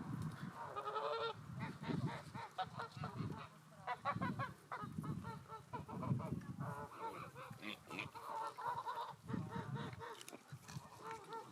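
Domestic geese honking in a series of short, repeated calls.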